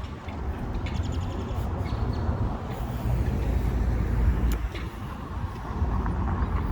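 Street traffic: a motor vehicle running close by with a low rumble, loudest a little past the middle, with a few scattered clicks.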